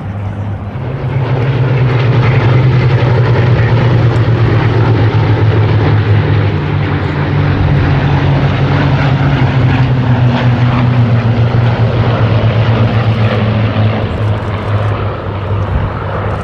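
Hawker Hurricanes' Rolls-Royce Merlin V12 piston engines droning in flight, swelling about a second in, holding a steady, loud, low note with a slight drop in pitch, then easing near the end.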